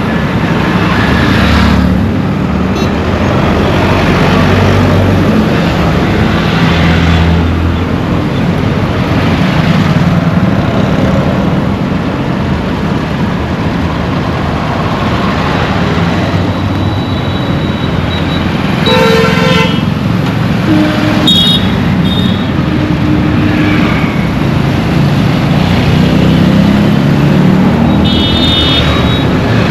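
Dense road traffic heard from a moving vehicle: a steady engine rumble and road noise, with vehicle horns honking over it. One horn sounds about two-thirds of the way through, another follows a couple of seconds later, and a higher honk comes near the end.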